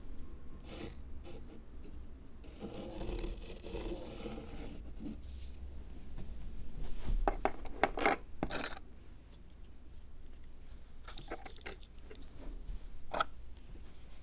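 Close-up handling of small craft materials for a miniature zen rock garden. There is a stretch of soft scraping and rubbing, then a quick cluster of sharp scrapes and clicks, and a few light clicks near the end.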